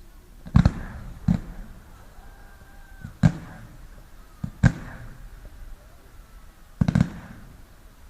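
Fireworks bursting overhead: sharp bangs a second or two apart, each with a short rumble after it, the last a quick double bang near the end.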